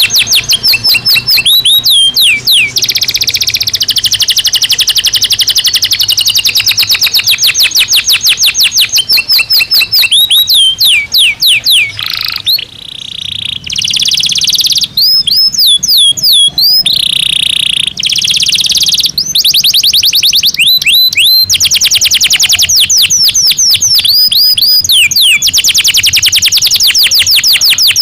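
Domestic canary singing: a loud, continuous song of rapid trills and rolls, swooping down-slurred notes and short held buzzy notes, with only a brief pause about twelve seconds in.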